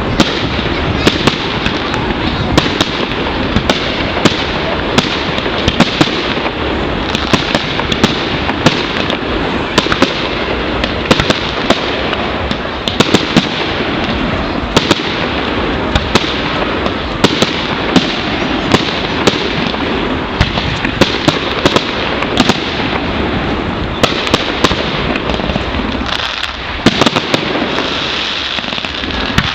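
Fireworks display: continuous dense crackling with frequent sharp bangs from bursting aerial shells, easing briefly near the end before picking up again.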